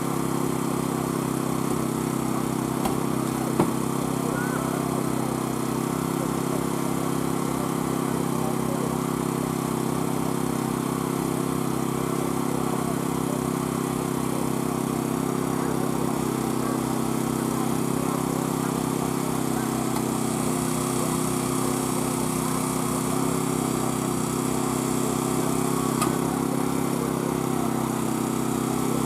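An engine running steadily at a constant speed, with a single sharp click about three and a half seconds in.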